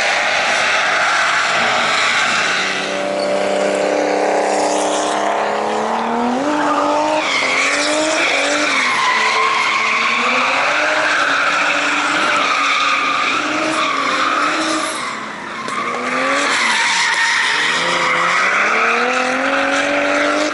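Drift cars sliding on track: engines revving up and down hard while the tyres squeal in long wavering tones, easing briefly about fifteen seconds in before building again.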